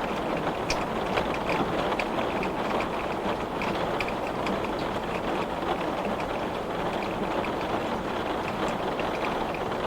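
Heavy rain falling on a glass pane: a steady hiss of rain with many separate drops ticking against the glass.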